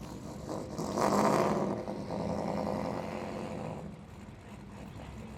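A car engine swells about a second in, loudest for about a second, then fades away over the next few seconds.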